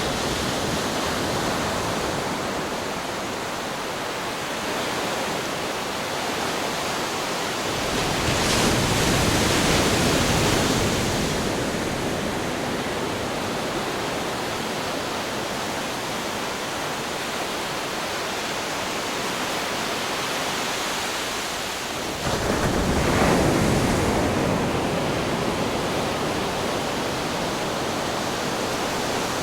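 Ocean waves crashing on rocks, a constant wash of surf with two bigger waves breaking, one about eight seconds in and a louder, sudden one about twenty-two seconds in.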